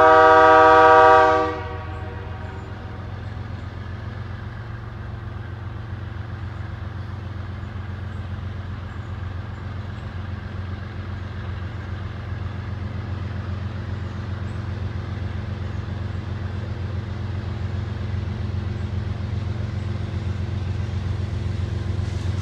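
One short blast of a diesel locomotive's air horn, several notes sounding together as a chord, followed by the steady low rumble of the train that slowly grows louder as it approaches.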